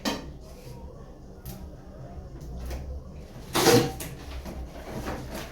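Handling sounds of a small microwave and its cardboard box being unpacked: a sharp knock at the start, a few light clicks and taps, and a louder bump about three and a half seconds in.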